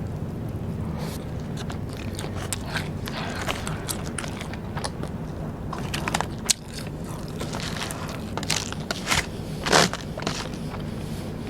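Close-miked eating of Vietnamese rice paper snacks: bites and chewing with scattered crisp crackles, and two louder crunches, one past the middle and one near the end.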